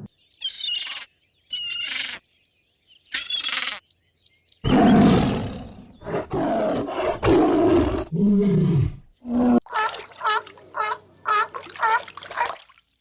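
A string of animal calls: three short high-pitched calls over a thin steady high tone, then a loud rough roar of a big cat lasting about three seconds, a lower call that falls in pitch, and a quick run of short repeated calls about two a second.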